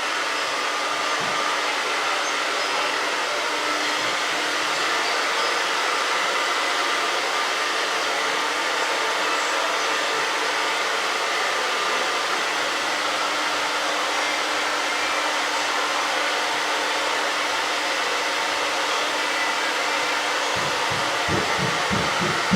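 Handheld hair dryer running steadily: a constant rush of blown air over a steady motor hum. Near the end a low fluttering pulse joins it.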